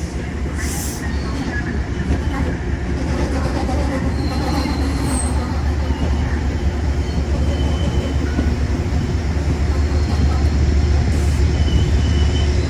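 Commuter train at a station platform: a steady low rumble that grows slowly louder, with a few brief, faint high squeals.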